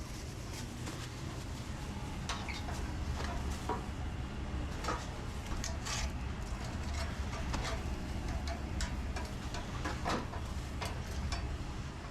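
Restaurant kitchen working noise: a steady low hum of kitchen equipment under scattered clatter and knocks of utensils, pans and dishes.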